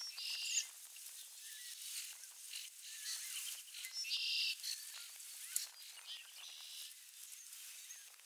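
Small birds calling outdoors: two short, buzzy calls, one right at the start and one about four seconds in, with faint chirps and light clicks in between, over a soft background hiss.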